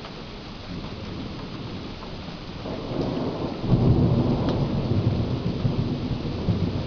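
Thunder rumbling over steady rain during a thunderstorm: a deep roll builds about three seconds in and stays loud through the rest.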